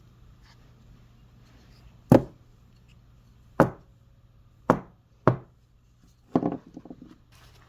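Small metal carburetor parts knocked sharply against a hard surface four times, spaced about a second apart, then a short rattling clatter near the end, as the old fuel is dumped out of the float bowl.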